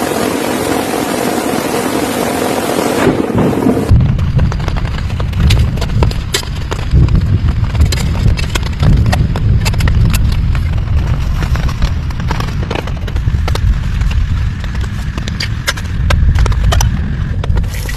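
Rain: a dense steady hiss for the first four seconds, then, after an abrupt change, a heavy low rumble with scattered sharp drop ticks.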